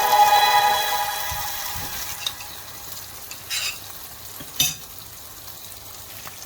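Chicken karahi frying in the pan and being stirred: a soft sizzle with a couple of short spoon scrapes, about three and a half and four and a half seconds in. A music note fades out over the first two seconds.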